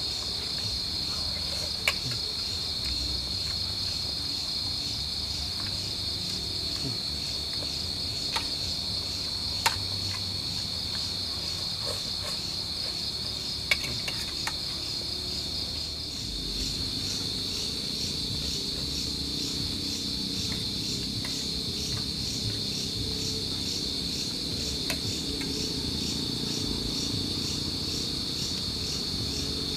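Crickets and other night insects chirring steadily in a high, pulsing trill, with a few sharp clicks or knocks scattered through, about five in all.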